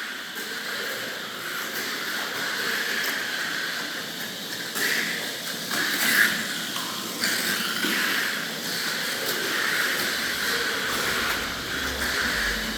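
Mini 4WD toy car's small electric motor running with a steady high whine and hiss. The tone and level jump abruptly several times.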